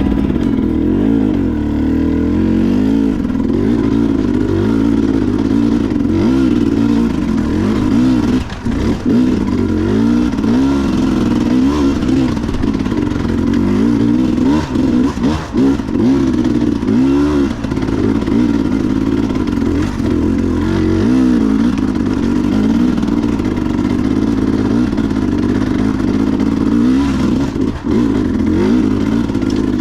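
Enduro dirt bike engine revving up and down continuously as the throttle is worked, with a few short drops where the throttle is briefly closed.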